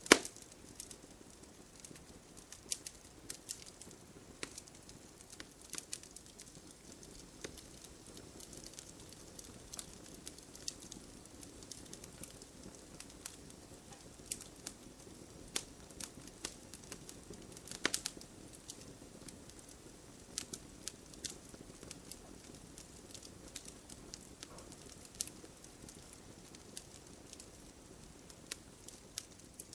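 Wood campfire burning, with irregular sharp crackles and pops over a soft low hiss of flame. The loudest pops come just at the start and about 18 seconds in.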